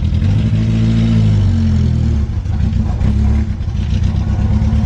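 First-generation Honda CRX's four-cylinder engine revving as the car pulls away, its pitch rising over the first second or so, then easing off briefly about two seconds in and again about three and a half seconds in.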